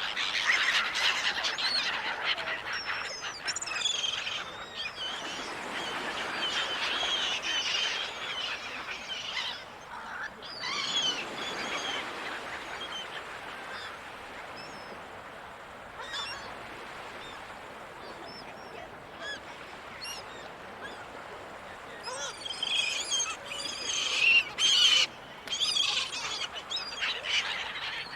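Seagulls calling: many short overlapping cries, busiest near the start and again toward the end, over a steady background rush.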